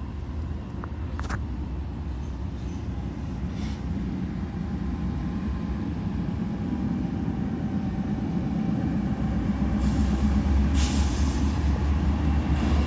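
A train rumbling, growing slowly louder, with a few short clicks and a faint thin tone above the rumble.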